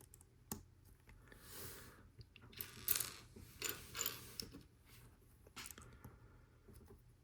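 Plastic Lego Technic pieces clicking and rattling faintly as they are picked up and handled, a scatter of sharp clicks and short rustles.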